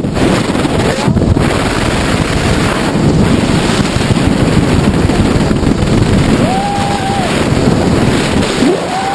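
Loud, steady rush of wind on the microphone during a skydiving helicopter flight, with a short tone that rises and falls twice in the second half.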